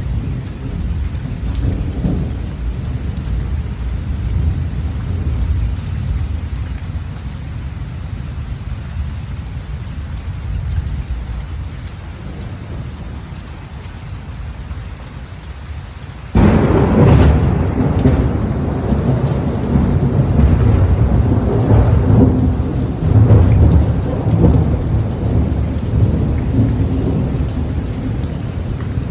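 Heavy rain in a thunderstorm with strong storm wind, a steady noise with a low rumble. It turns suddenly louder a little past halfway.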